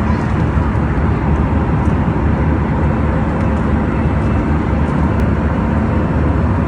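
Steady drone and rumble of an airliner cabin, engine noise holding level with a few faint steady hums over a deep rumble.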